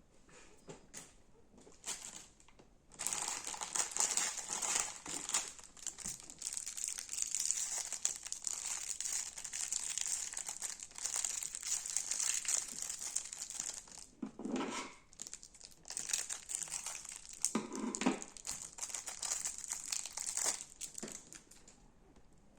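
Crunchy slime being squeezed and pressed by hand, giving a dense crackling and crinkling that starts a few seconds in and goes on until near the end. Twice in the second half there is a deeper, softer squish.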